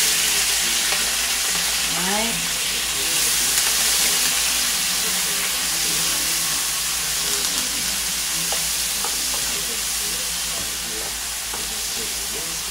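Sliced bell peppers sizzling in hot oil left from frying fish, just dropped into the pan and stirred with a wooden spoon. A steady, loud frying hiss that eases a little toward the end.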